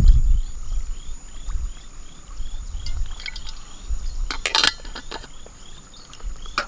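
Outdoor ambience: a small animal's short rising chirp repeating about two or three times a second over a steady high whine, with a brief louder burst of noise about four and a half seconds in.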